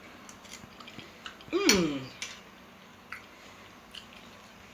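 Quiet mouth sounds of someone eating porridge beans: chewing with small wet clicks and smacks, and a short "mm" that slides down in pitch about one and a half seconds in.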